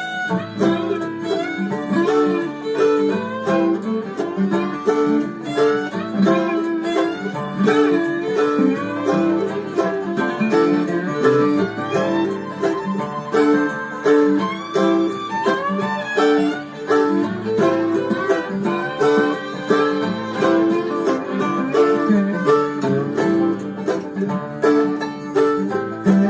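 Instrumental bluegrass break with no singing: banjo and guitar picking rapid notes over a steady beat.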